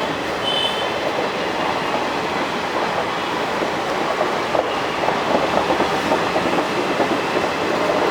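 Passenger train rolling past on the track, its wheels clattering over rail joints, with a brief high wheel squeal just after the start. The clatter grows busier from about halfway through.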